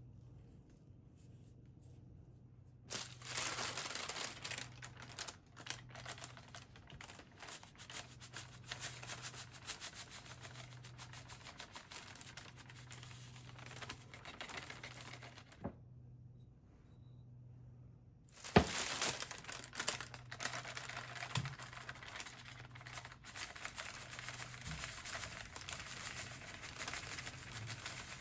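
Dry crinkling and crackling of something being crumpled or rubbed by hand. It comes in two long stretches with a pause of about three seconds between them and a sharp click as the second begins. A faint steady low hum runs underneath.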